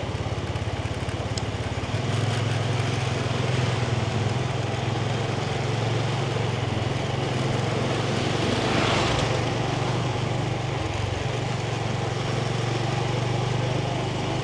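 Yamaha 125cc motorbike engine running while riding along a street, a steady hum whose note steps up about two seconds in. A brief swell of noise comes around the middle.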